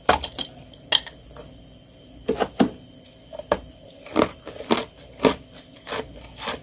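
Freezer frost ice being bitten and chewed: a string of sharp, irregular crunches, some coming in quick clusters of two or three.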